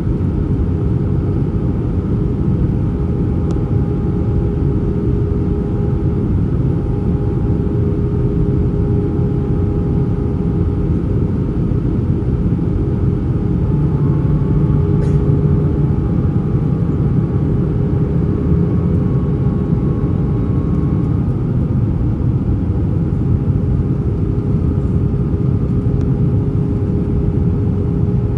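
Airbus A320 cabin noise in flight on approach: a steady rumble of engines and airflow with steady engine tones. About halfway through, the rumble swells briefly and a higher engine tone joins for several seconds, as the engine setting changes.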